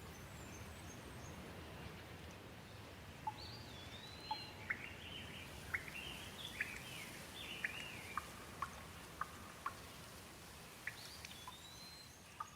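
Gentle rain falling with a steady, faint hiss, with a bird chirping over it in a run of short, sliding notes from about three seconds in until near the end.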